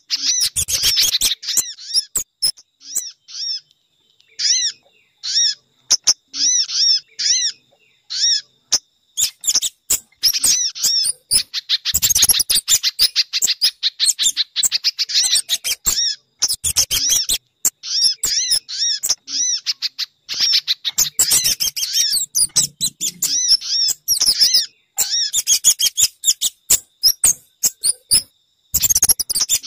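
Bird-lure track of recorded calls of sogon, pijantung (spiderhunter) and kemade birds: fast runs of short, high, sharp chirps in bursts with brief gaps, busiest from about ten seconds in.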